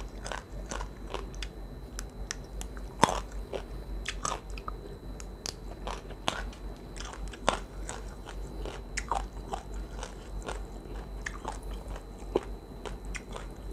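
Close-miked chewing of crunchy food: irregular crisp crunches and wet mouth clicks, with a sharper crunch about three seconds in.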